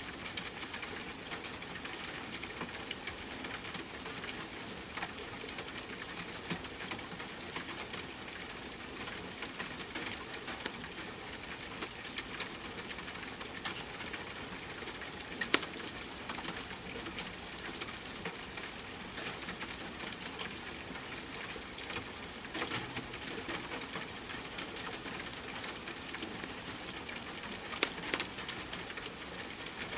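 Steady rain hiss with a wood fire crackling over it in scattered sharp pops, one pop standing out about halfway through.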